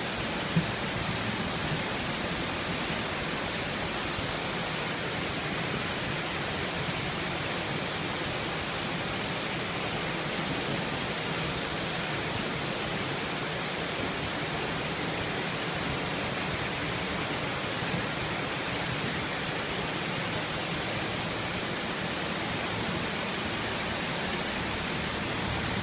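Heavy cloudburst rain pouring down steadily in an even, unbroken hiss.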